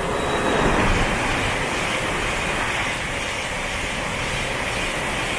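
Siemens Class 700 electric multiple unit running through the station at speed without stopping: a steady rush of wheels on rail and air, loudest about a second in.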